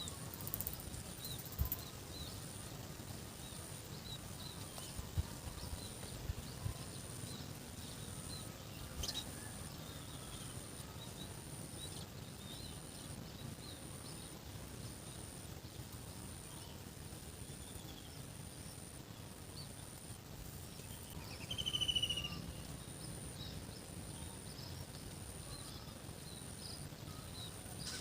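Rural outdoor ambience: an insect trills steadily in a high, regularly pulsing tone, with scattered faint bird chirps and a few soft knocks. One louder bird call comes about two-thirds of the way in.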